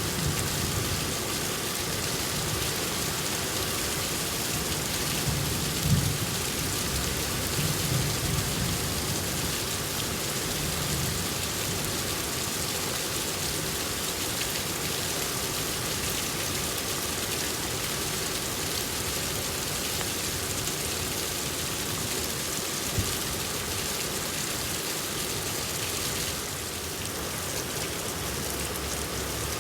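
Steady rain falling, with low rumbles of thunder through roughly the first third.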